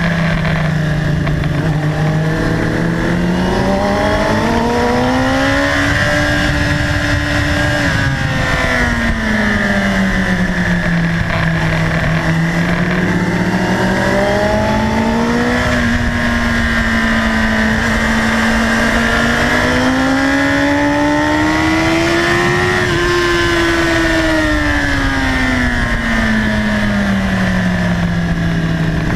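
Onboard sound of a sport motorcycle's engine at speed on a track, its pitch rising and falling smoothly over several seconds at a time as the rider accelerates and slows through the corners.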